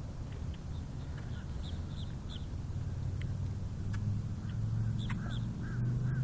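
A flock of birds calling with many short, repeated chirps, over a steady low hum.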